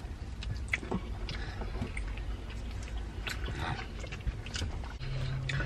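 Close-up eating sounds: chewing a chicken nugget, with scattered small wet mouth clicks over a steady low rumble.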